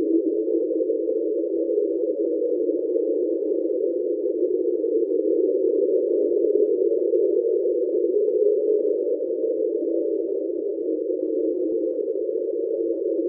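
NOAA's underwater hydrophone recording of the unidentified "Train" sound: a steady, droning hum made of several close tones, unbroken throughout. NOAA later attributed the sound to a large iceberg grounding on the sea floor.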